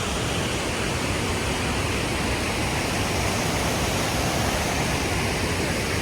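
Iguazu Falls' cascades rushing as a steady, even noise with no breaks.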